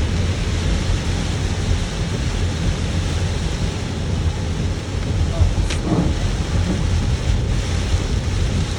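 Torrential rain drumming steadily on a moving car, with a constant low rumble underneath.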